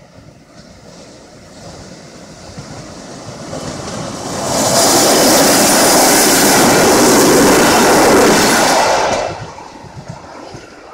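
PKP class EN57 electric multiple unit passing close by. It builds as the unit approaches, holds as a loud, steady rushing for about four seconds while the cars go past, then drops off suddenly as the last car clears.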